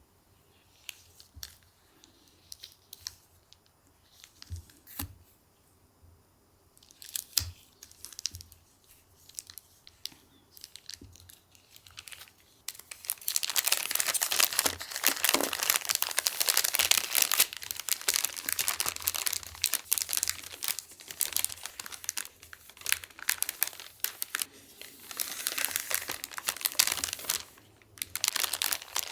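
Crinkly wrapping material being handled: a few light rustles and clicks at first, then a little under halfway through, a long stretch of dense, loud crinkling that eases off just before the end.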